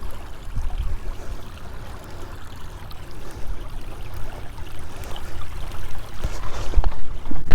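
Steady rush of a stream or river flowing, over a low uneven rumble, with footsteps on slippery ground growing toward the end.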